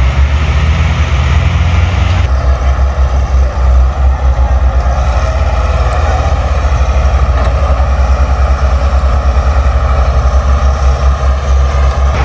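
Heavy vehicle engine running steadily with a deep rumble. About two seconds in, some of the higher hiss drops away.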